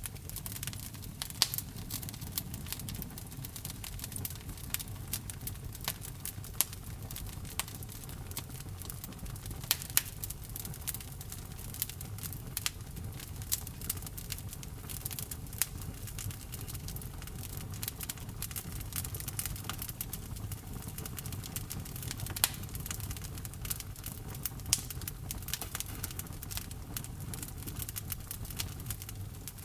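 Wood fire in a fireplace, logs crackling with irregular snaps and pops, a few of them sharply louder, over a low steady rumble of the flames.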